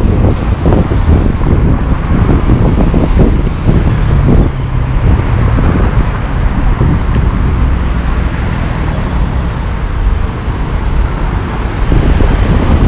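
Road traffic noise: a steady, loud low rumble of vehicles.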